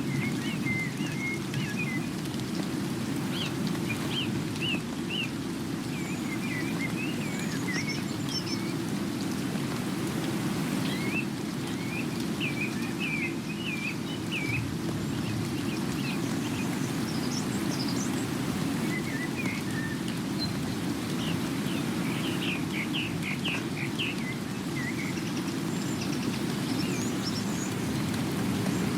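Steady rain with a low, even rushing sound, while small birds chirp on and off over it.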